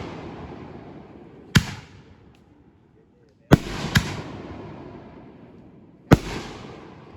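Fireworks bursting: four sharp bangs, two of them half a second apart in the middle, each trailing off in a long fading rumble.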